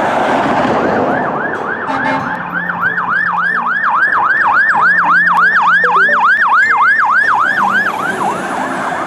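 Toy fire engine's electronic siren sound effect: a fast repeating wail, about three swoops a second, after a noisy start of about two seconds. It cuts off suddenly.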